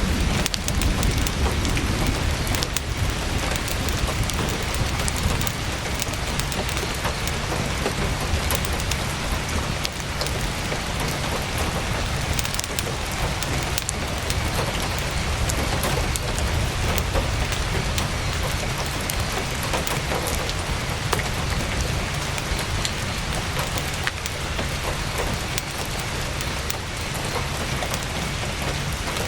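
Heavy rain drumming steadily on a tent's fabric, a deep low patter under a dense hiss with many sharp scattered ticks of drops.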